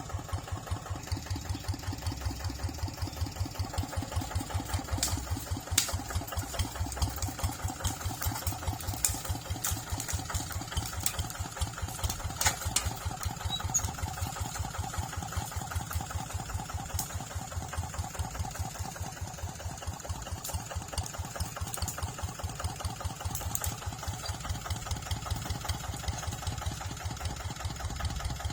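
Tractor engine running steadily with an even, rapid beat, with scattered sharp clicks over it for a while in the first half.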